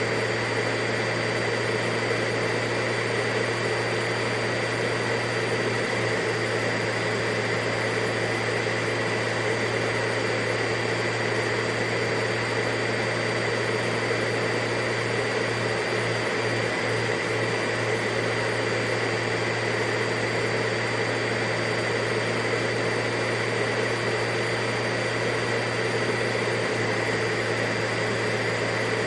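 Vacuum cleaner running steadily, a constant motor whine over a rush of air with no change in pitch or loudness.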